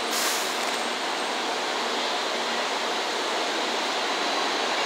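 N700 series Shinkansen trainset starting to move, a steady rushing noise of the train, with a short hiss just after the start.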